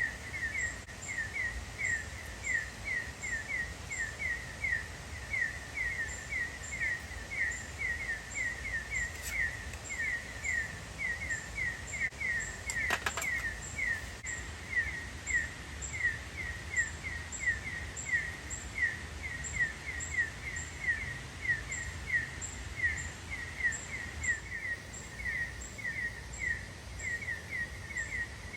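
A small animal chirping over and over, short falling chirps at about three a second without a break, over a low steady rumble.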